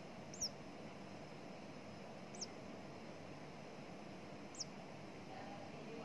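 A nestling bird cheeping: three short, high calls, each falling in pitch, about two seconds apart.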